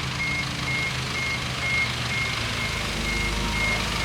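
Bulldozer's reversing alarm beeping steadily, about two high beeps a second, over the rumble of its diesel engine, whose note shifts about halfway through.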